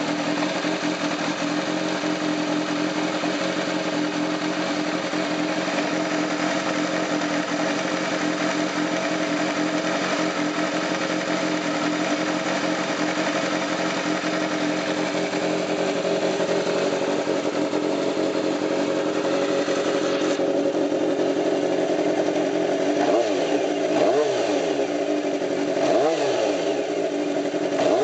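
Kawasaki Z400FX's air-cooled inline-four engine idling steadily, then blipped several times in quick succession near the end, each rev rising and falling back to idle.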